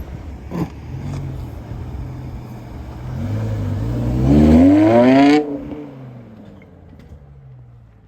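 A car engine revving up under acceleration, its pitch rising for about two seconds to a loud peak, then cutting off sharply about five seconds in and fading away.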